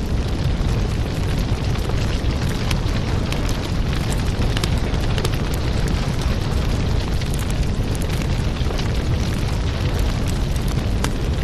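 Wood fire crackling in a fireplace: a steady low rumble of flames with frequent small crackles and pops.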